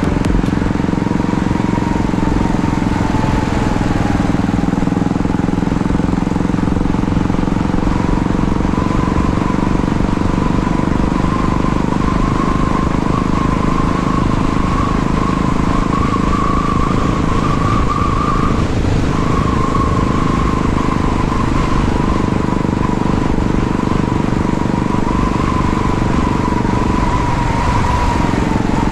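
Royal Enfield motorcycle's single-cylinder engine running under way at a steady speed, with a steady rush of road and riding noise.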